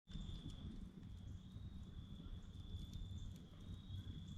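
Night insects, such as crickets, keeping up one steady high-pitched trill, over a faint low rumble and a few soft ticks.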